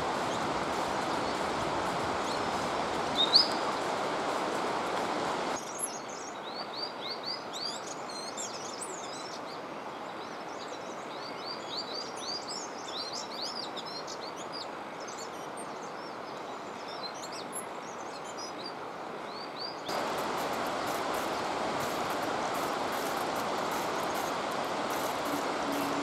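Small birds chirping: a quick, busy run of short high chirps for about fourteen seconds in the middle, over a steady rushing noise that fills the beginning and end, where only one short rising chirp is heard.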